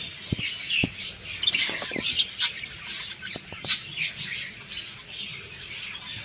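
Small pet parrots in cages chirping and squawking in many short, overlapping calls, with a few sharp ticks among them.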